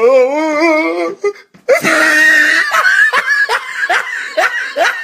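People laughing hard: a long wavering high-pitched laugh first, then a loud burst and a run of short laughing breaths, about two to three a second.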